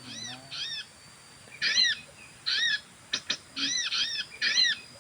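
A bird calling in short, arched whistled notes, each rising then falling, in clusters of two or three that repeat about every second. There are a few sharp clicks about two-thirds of the way through.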